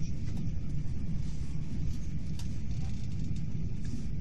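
Hyundai Rotem Intercity+ electric train running at speed, heard from inside the carriage: a steady low rumble of wheels on rail, with a few faint clicks.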